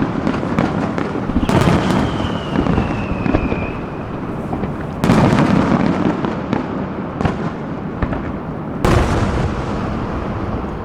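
Aerial fireworks display: continuous dense crackling, with heavy shell bursts about 1.5, 5 and 9 seconds in, and a whistle falling slightly in pitch for about two seconds after the first burst.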